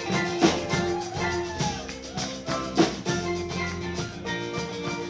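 Live band playing an instrumental passage without vocals: drum hits with sustained, bending guitar notes.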